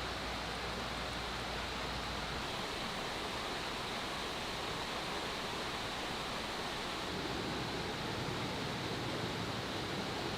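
A steady rushing noise with no distinct events, with a low hum that stops about two and a half seconds in.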